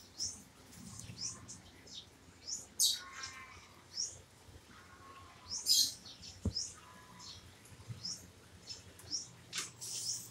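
Small birds chirping, short high rising chirps repeated irregularly, with a single sharp tap about six and a half seconds in.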